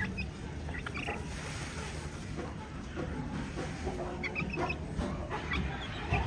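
Aseel chickens and chicks giving short, scattered peeps and clucks over a steady low rumble.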